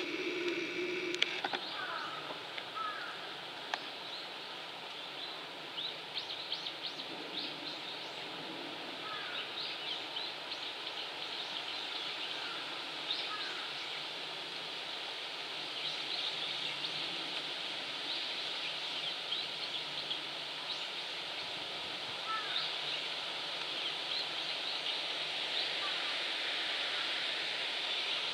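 Outdoor ambience: short bird chirps come scattered through it, over a steady hiss.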